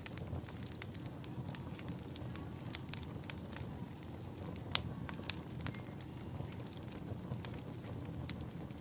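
Wood fire in a fireplace crackling: a steady low rumble with irregular sharp pops, one louder pop about halfway through.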